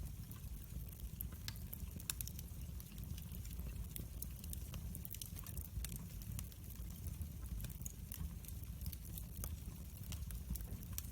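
Wood fire burning in a fireplace, crackling with frequent small, sharp pops and snaps over a steady low rumble of the flames.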